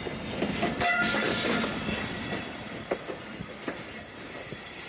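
Passenger train coaches rolling in as the train arrives, with high-pitched wheel squeal and a few sharp knocks.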